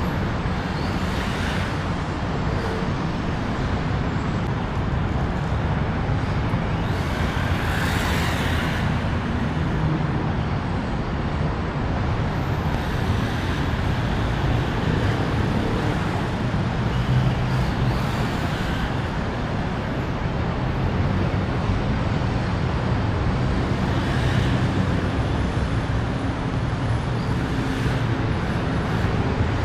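Steady motor vehicle and road traffic noise, with vehicles swelling past several times.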